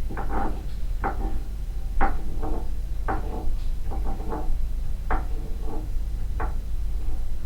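Floor impact noise: a string of irregular knocks and thuds on a floor, roughly one to two a second, some ringing briefly, over a steady low hum.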